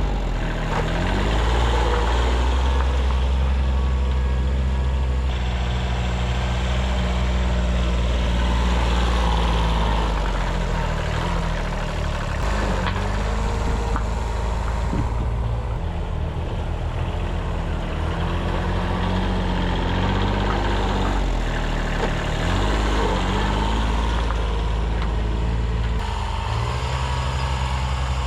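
A 1978 Kubota B6100's 14 hp diesel tractor engine running steadily, its note rising and falling a few times as the revs change under load.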